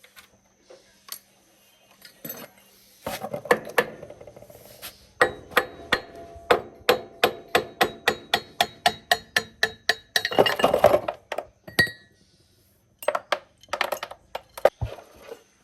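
Hammer blows on metal: a steady run of strikes about three a second, each with a ringing note, then a burst of clattering and a few more scattered knocks near the end.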